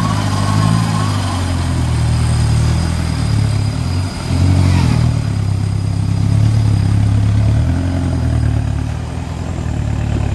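Off-road car's engine running, its pitch rising and falling with the throttle; it drops briefly about four seconds in, then revs up again.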